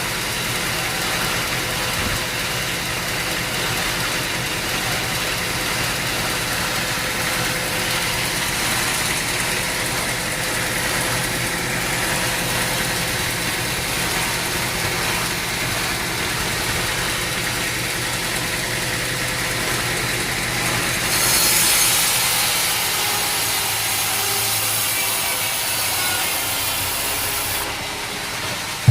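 Sawmill machinery running steadily with an engine hum while a saw cuts through a log. A high, hissing cutting sound grows louder about three quarters of the way through, holds for several seconds, then drops away.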